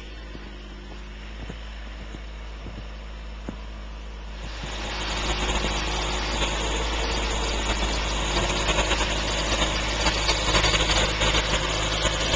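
Engine of a vehicle plowing snow, with the scrape of its blade along the driveway; the sound swells in about four and a half seconds in and stays loud and steady.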